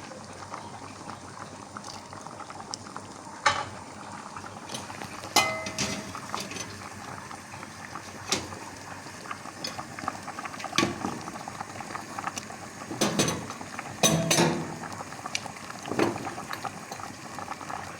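Steady bubbling of liquid at the boil, with scattered clinks and knocks of dishes and utensils, one ringing clink about five seconds in and a cluster of knocks near the thirteen to fourteen second mark.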